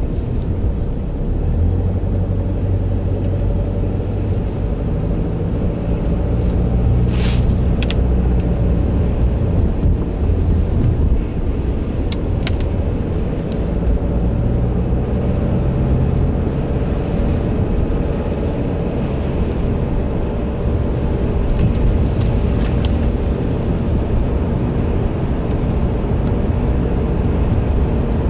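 Car on the move: a steady, loud low engine and road rumble, with a few sharp clicks.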